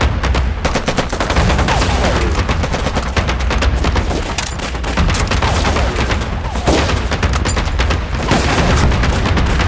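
Dense, continuous gunfire: rapid machine-gun bursts mixed with other shots, firing without pause.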